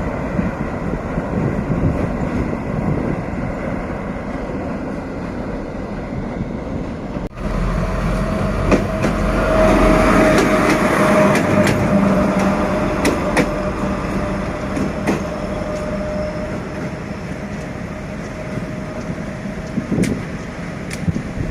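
D11H diesel-hydraulic locomotives running along the track: a steady engine drone with wheel and rail noise. The sound cuts out briefly about seven seconds in, then returns louder with a steady whine and scattered sharp clicks.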